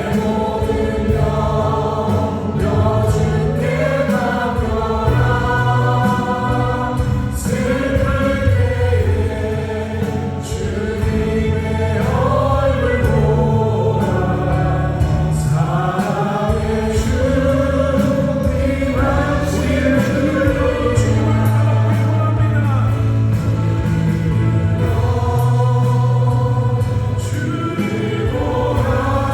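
Worship band playing a Christian praise song: several vocalists singing together over keyboards, drums and acoustic guitar, with light cymbal strokes.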